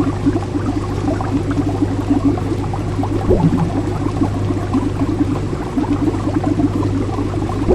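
Steady bubbling water, aquarium-like, over a constant low hum, with one larger gurgle about three seconds in.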